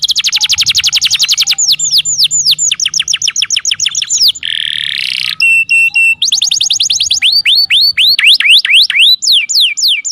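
Domestic canary song, loud and high-pitched, moving through quick passages: a fast trill of evenly repeated notes, then runs of steep downward-sliding whistles, a brief buzzy roll and a few short held tones, the pattern changing every second or two.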